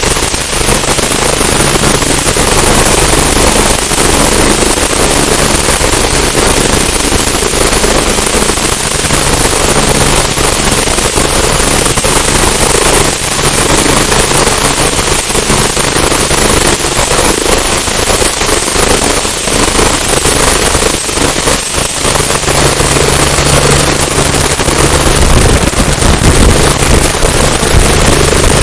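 AgustaWestland AW109E Power twin-engine medical helicopter running, its main rotor chopping rapidly over a steady high turbine whine. Near the end the whine climbs slightly in pitch and the low rumble grows.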